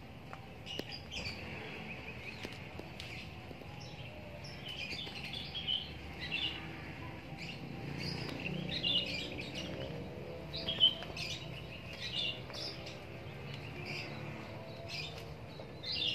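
Small birds chirping, many short high calls scattered throughout, over a low steady background hum, with one sharp click about eleven seconds in.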